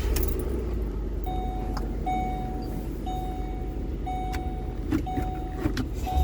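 Pickup truck engine running steadily while a dashboard warning chime beeps about once a second.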